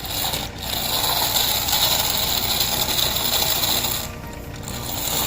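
Small toy tractor's motor and gears running with a dense rattling whir, easing off about four seconds in and picking up again near the end.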